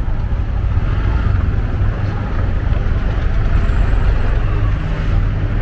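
Riding a motor scooter: heavy, steady wind rumble on the microphone with the scooter's engine and traffic running beneath it.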